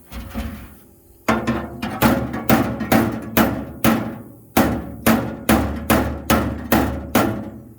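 A small hammer beating on a metal toolbox drawer, about fourteen sharp ringing strikes at roughly two a second with a short break in the middle, hammering the bent drawer back into shape. It is pretty loud.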